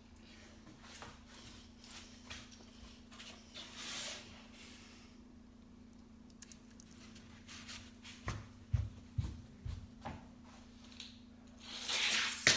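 Small clicks and knocks of die-cast toy cars and a plastic track being handled, with a few low thuds about eight to ten seconds in. Near the end comes a louder rushing rattle as a toy car runs down the track toward the jump.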